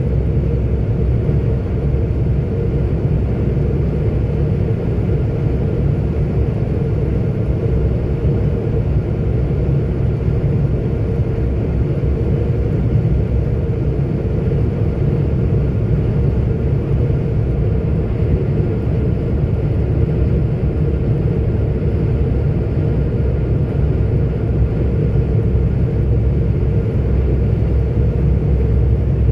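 Steady low rumble of a 44-ton articulated truck cruising on the road, engine drone mixed with tyre and road noise.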